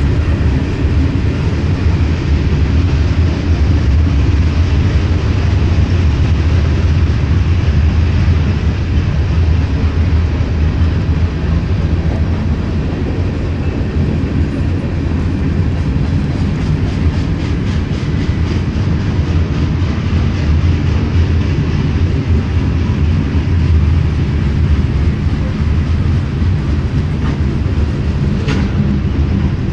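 Freight train cars rolling past: a steady, heavy low rumble of steel wheels on rail, with a stretch of rhythmic clicking partway through.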